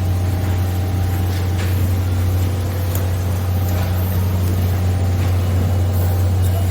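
A steady low mechanical hum from running machinery, with a few faint clicks over it.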